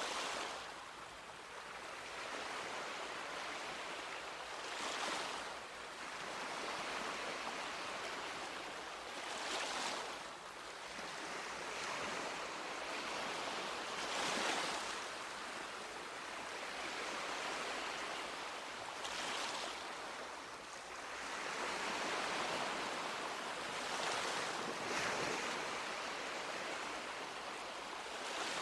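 Sea waves breaking and washing up a beach, a continuous surf wash that swells with a break about every five seconds.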